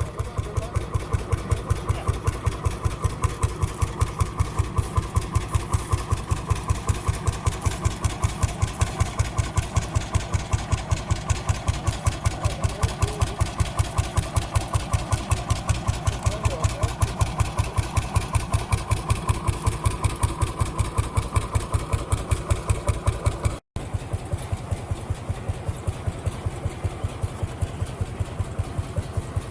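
Vintage engine running steadily at a slow, even beat of a few firing strokes a second. Near the end there is a short break, after which the same beat carries on a little quieter.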